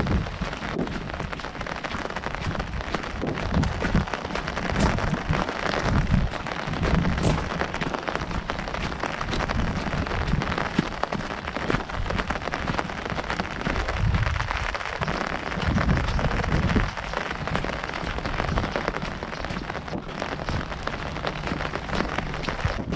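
Heavy rain drumming on an umbrella overhead: a dense, steady patter of many drops, with irregular low rumbles underneath.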